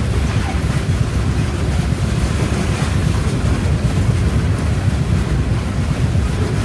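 Loaded coal hopper cars of a freight train rolling past on the rails: a steady low rumble, mixed with wind buffeting the microphone.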